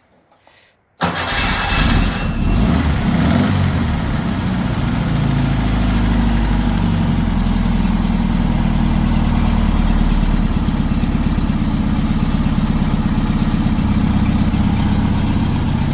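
Freshly rebuilt 1967 Porsche 912 air-cooled flat-four engine starting about a second in, running a little faster for a couple of seconds, then settling into a steady idle.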